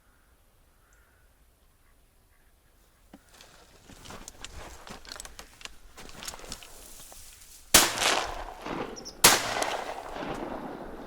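Two shotgun shots about a second and a half apart, each ringing on briefly, fired at a drake. Before them comes a few seconds of scattered clicks and rustling.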